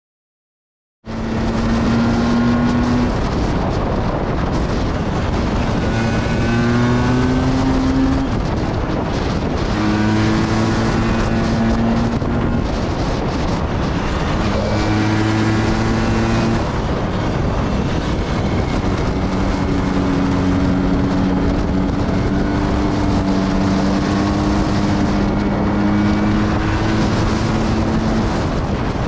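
Motorcycle engine running hard under load with heavy wind noise, its pitch climbing and then dropping back several times as it revs through the gears. It starts about a second in.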